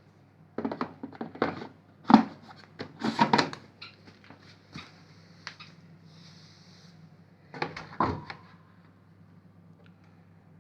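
Plastic clicks and knocks from handling a Bosch Maxx 5 washing machine, such as its door and detergent drawer being worked, in two bursts with a short hiss between them over a low steady hum.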